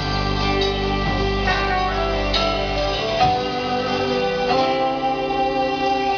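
Live band playing an instrumental passage, led by guitar, with sustained chords and no singing.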